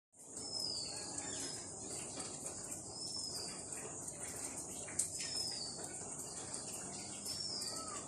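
A bird repeats a short, downward-sliding whistled call about every two seconds over a steady, high-pitched drone of insects. A single sharp click comes about five seconds in.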